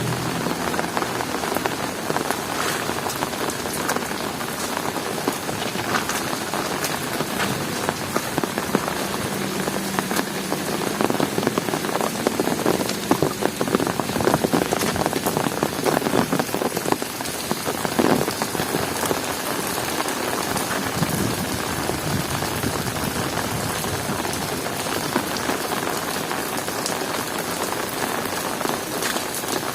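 Heavy rain falling steadily, with a dense ticking of individual drops hitting close surfaces.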